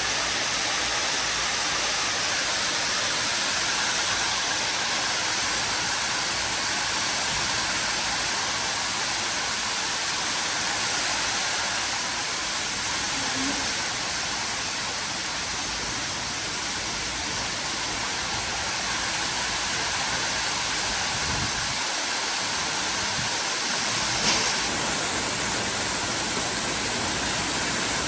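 Heavy rain pouring down in a windstorm, a steady, even hiss of water. One sharp tick sounds near the end.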